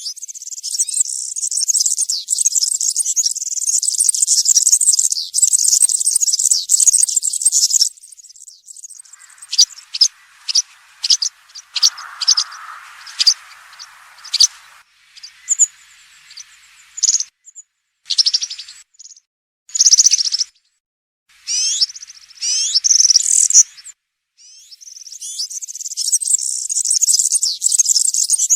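European serin singing its wild-type field song: a fast, high-pitched jingling run for the first several seconds, breaking about a third of the way in into short separate phrases and calls with pauses, then a dense run again near the end.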